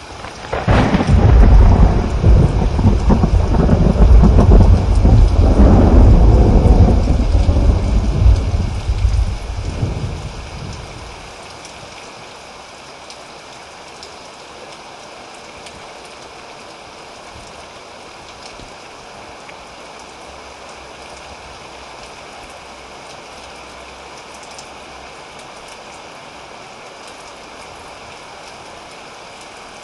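A long roll of thunder breaks about half a second in, rumbles deep and loud for about ten seconds, then dies away. Steady rain falls throughout and carries on alone after the thunder fades.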